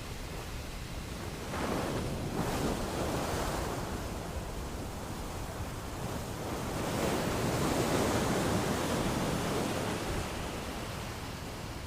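Ocean surf: waves breaking and washing in as a steady rush. Two swells grow louder, one about two seconds in and a bigger one around seven to nine seconds in.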